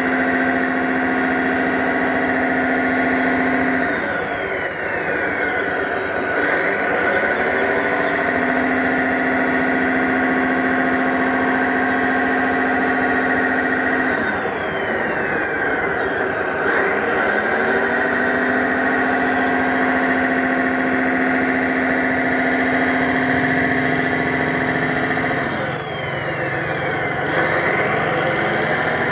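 Radio-controlled 1/5-scale Ford 6610 model tractor running with a steady motor hum; three times its pitch drops away and rises again as it slows and speeds up.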